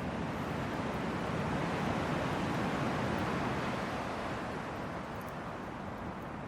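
Hardwood campfire burning in a fire stand: a steady rushing sound of the flames, which swells and then eases a little.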